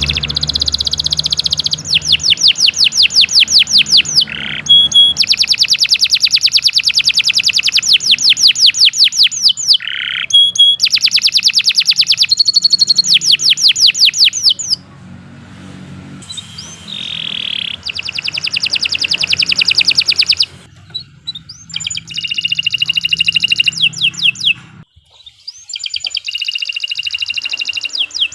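Domestic canary singing a long song of fast trills: rapidly repeated high notes, the note type changing from phrase to phrase, with a few short pauses between phrases.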